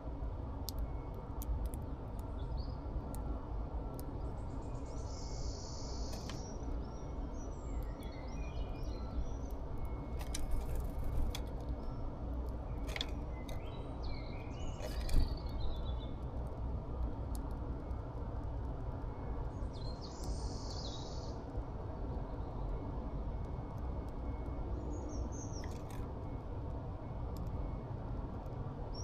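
Small birds chirping in short scattered bursts over a steady low background rumble, with a few sharp clicks, the loudest about halfway through.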